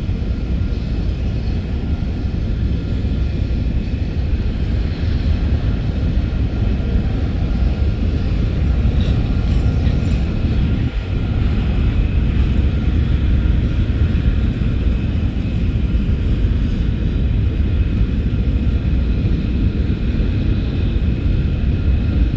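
Freight train rolling past, a steady loud rumble of wheels on the rails.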